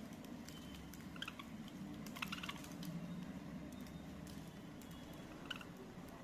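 Small pet parrots giving a few short, high chirps among scattered light clicks and taps, over a steady low hum.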